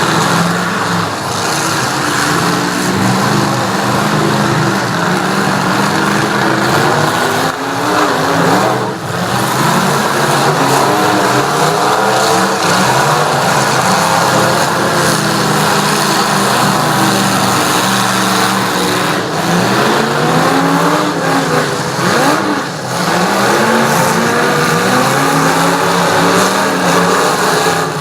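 Several truck engines revving hard at once, their pitches rising and falling over and over without a break.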